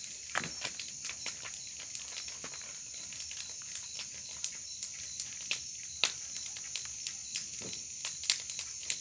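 Wood bonfire crackling with irregular sharp pops, over a steady high chirring of crickets.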